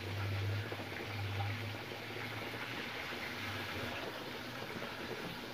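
Chicken liver frying in hot oil: a steady sizzle, with a low hum that comes and goes during the first couple of seconds.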